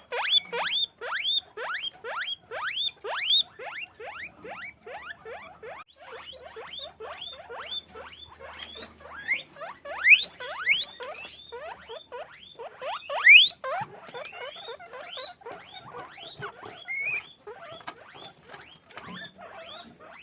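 Guinea pigs squeaking: a fast, continuous run of short rising squeaks, about three a second, with two louder squeals about ten and thirteen seconds in.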